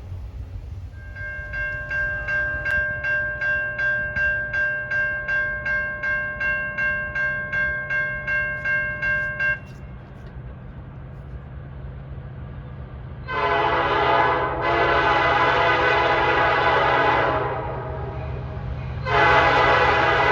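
Railroad grade crossing bell ringing about twice a second, which cuts off abruptly. A train's locomotive horn then sounds a short blast, a longer blast, and another blast starting near the end, loud over a steady low rumble.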